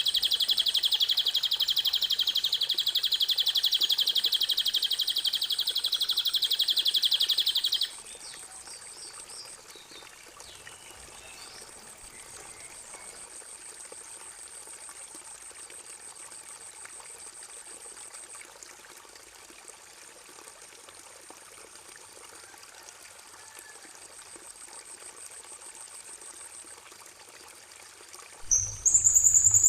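Songbird song from a bird-song tutor recording. A loud, fast, buzzy trill runs for about eight seconds and stops abruptly. After that come faint scattered chirps over a steady high whine, and a new loud high-pitched call starts near the end.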